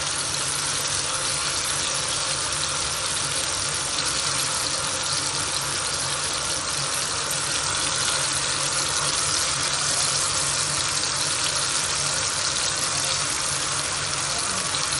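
Masala-coated pumpkin pieces sizzling in hot oil on a flat dosa griddle, a steady hiss as the moisture from the vegetable cooks off in the oil.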